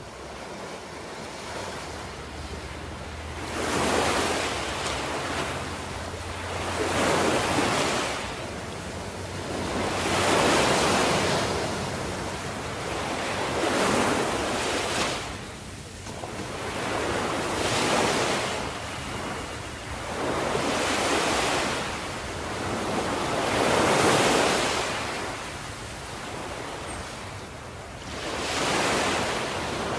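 Ocean waves washing in, swelling and fading in a surge every three to four seconds, building up from a quieter start.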